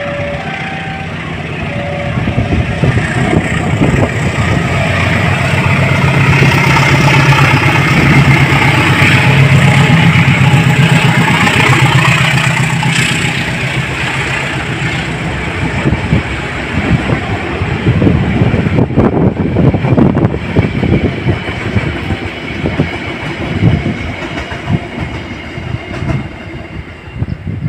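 A CC206 diesel-electric locomotive passing: a deep, steady engine hum that builds and peaks about ten seconds in, then the train's wagons clattering over rail joints in an irregular clickety-clack to the end.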